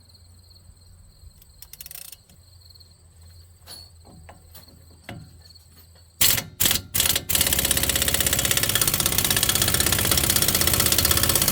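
A few faint clicks of a socket being handled, then about six seconds in an impact wrench with a 36 mm half-inch-drive socket gives three short bursts and then hammers steadily on the front hub nut, which is on tight and not yet coming loose.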